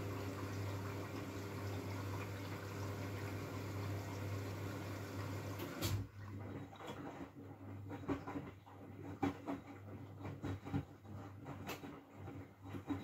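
Miele W433S washing machine taking in water: a steady rush of water through the inlet with a low hum, cutting off sharply about six seconds in. After that come scattered soft clicks and splashes from the drum.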